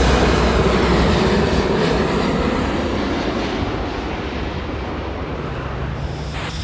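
Z3-class tram running noise heard from on board: a dense rumble and hiss over a steady low hum that gradually dies away.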